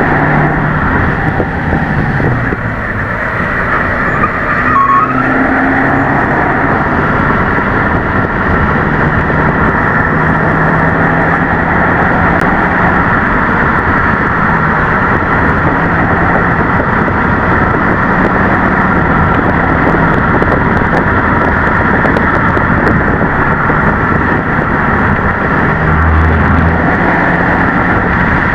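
Subaru WRX S4's turbocharged flat-four engine and CVT pulling the car along, with intake and exhaust sound; the engine note holds fairly steady with small shifts in pitch, as a CVT keeps revs near constant.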